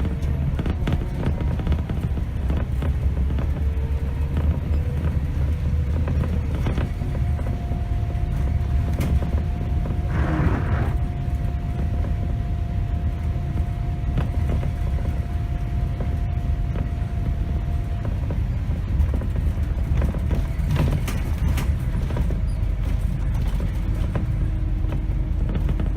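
Scania K270 city bus in motion, heard from the driver's seat: a steady low rumble from the diesel engine and road, with frequent small rattles and creaks from the body. A short hiss comes about ten seconds in, and faint held tones sit under the rumble.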